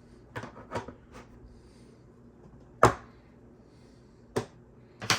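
Hard 3D-printed plastic parts being handled and set down on a table: a handful of separate sharp clicks and knocks, the loudest about three seconds in.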